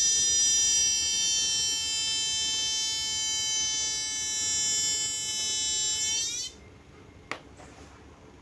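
Chinese TV switch-mode power supply squealing with a steady high-pitched whistle, the fault symptom still present after the regulator transistor was replaced, with B+ output only about 7 V. The whistle cuts off about six and a half seconds in, followed a moment later by a single click.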